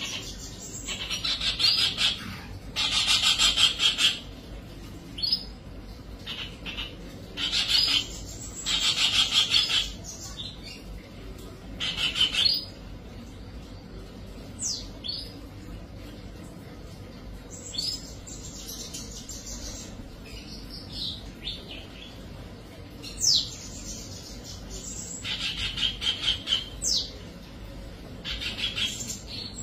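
Bird song: fast trilled phrases of one to two seconds, repeated every few seconds, with a few short, sharp, falling notes in between.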